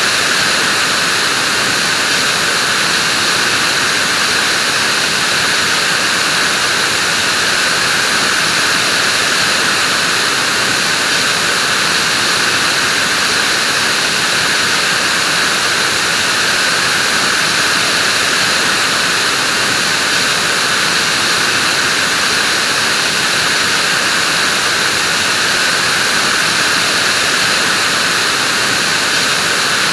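Vacuum cleaner running steadily: an even rushing hiss, more treble than bass, with no change in pitch or level.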